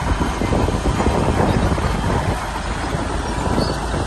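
Shantui crawler bulldozer's diesel engine running with a steady, loud rumble.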